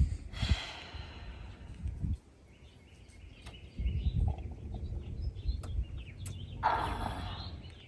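Outdoor ambience: short bird chirps scattered through the middle, over an uneven low rumble, with a louder rushing burst near the end.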